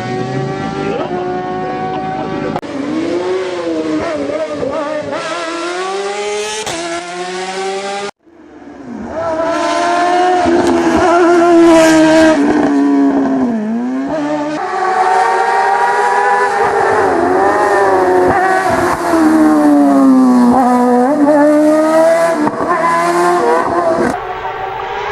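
BMW S1000RR inline-four superbike engine in a four-wheel-drive Fiat 500 hillclimb race car, revved hard with its pitch repeatedly climbing and dropping through gear changes and corners. The sound cuts off suddenly about eight seconds in and comes back.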